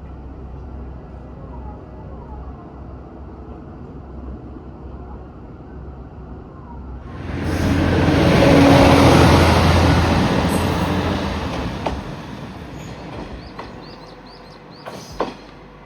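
Diesel railcar of the Nishikigawa Railway: a steady low rumble, then about seven seconds in a loud rushing rumble that swells and fades away over several seconds. A few sharp clicks come near the end.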